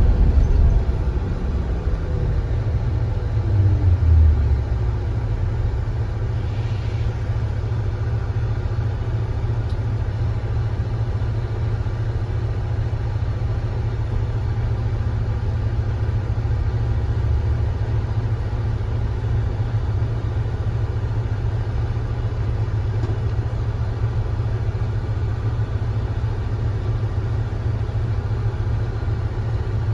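Kia Granbird Sunshine coach's engine winding down, its pitch falling over the first few seconds as the bus slows, then idling with a steady low rumble.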